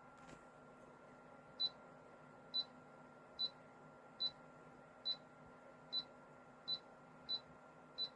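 Touch panel of a Humuge mini dehumidifier beeping once per tap as the light-colour button is pressed repeatedly: nine short, high beeps, roughly one every 0.8 seconds.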